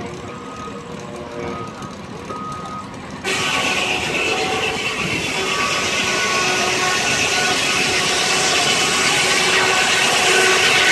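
Sawmill circular saw, belt-driven by a steam traction engine, running free with a steady whine. About three seconds in it bites into a log, and the cutting noise comes in suddenly and grows steadily louder.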